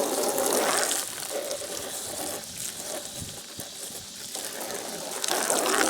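Water running and splashing as a mixing tub and trowel are rinsed out, louder in the first second and again near the end.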